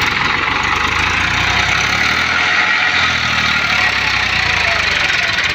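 Diesel tractor engine running loudly and steadily, with fast, even firing pulses.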